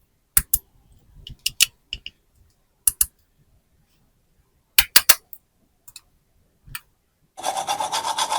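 Hard plastic toy pieces clicking and tapping together in short pairs and triplets, with silence between. About seven seconds in, a steady rubbing or scraping starts, pulsing a few times a second.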